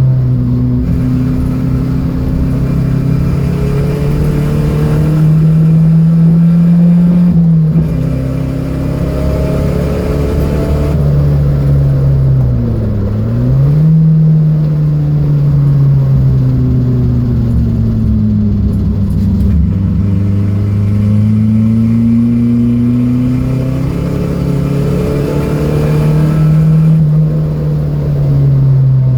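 Datsun B210's engine running hard under load, its pitch climbing and then dropping sharply several times as it revs up through the gears and lifts off. There is a quick dip and recovery about halfway through, and a long slow fall and rise later on.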